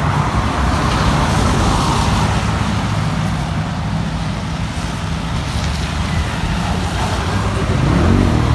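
Steady road traffic noise, with a motor vehicle's engine running.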